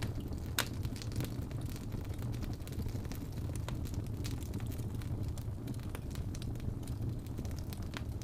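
Fire in a fireplace crackling: scattered sharp pops and snaps over a steady low rumble, with one louder pop just over half a second in.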